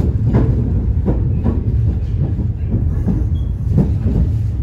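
A moving suburban train heard from inside the carriage: a steady low rumble, with a run of irregular wheel clacks over the rail joints.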